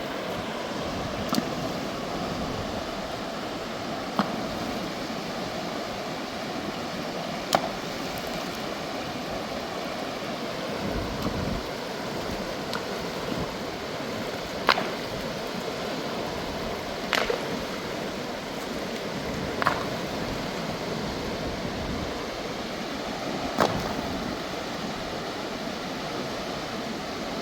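Mountain river rushing steadily, with a handful of sharp, short knocks at irregular moments, every few seconds.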